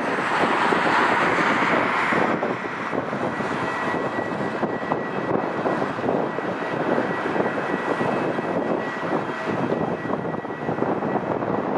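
Rolls-Royce RB211 jet engines of a Boeing 747-200F running: a dense rushing noise, louder for the first two seconds, with a steady high whine that comes through after that.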